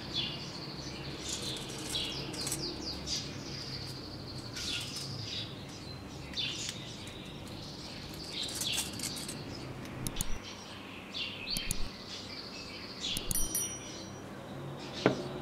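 Birds chirping in quick, repeated short calls, with a few sharp clicks in the last few seconds.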